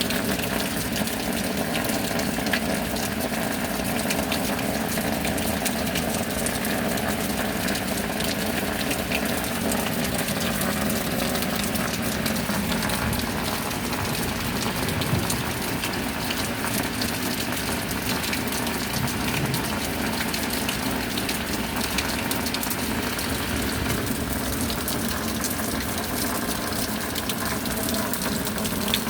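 Steady heavy rain falling, a dense, even patter of drops over a constant rush of water.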